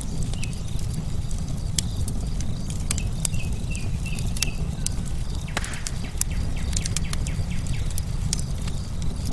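Wood fire crackling, with sharp irregular pops over a steady low rumble of burning logs. A bird gives a short run of chirps partway through, and a faint steady trill, crickets, runs underneath.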